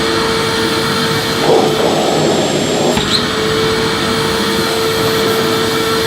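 Electric vacuum cleaner running steadily: a rush of air with a steady hum. The sound swells briefly twice, about one and a half and three seconds in, as the nozzle is moved over the floor.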